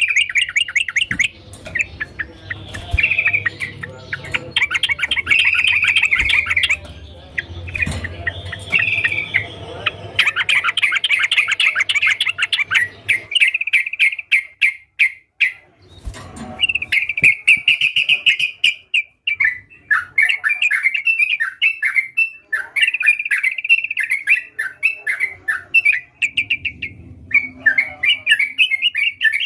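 Yellow-vented bulbul (trucukan) singing vigorously: fast, bubbling runs of chirps and warbled notes, almost unbroken, with a short pause around the middle.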